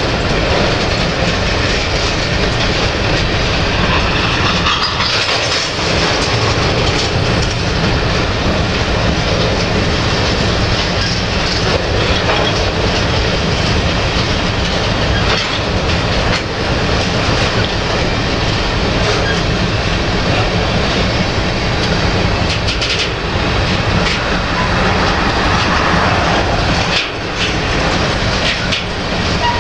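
Covered hopper cars of a Canadian Pacific freight train rolling past close by: a loud, steady rumble of steel wheels on the rails, with occasional sharper clacks.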